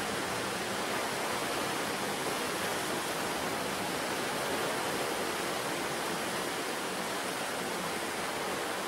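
Surf on a rocky sea coast: a steady wash of breaking waves and churning water, with no single wave standing out.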